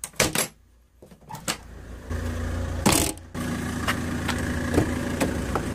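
A few sharp clicks of a door, then from about two seconds in a car engine idling steadily, with a single loud knock near three seconds.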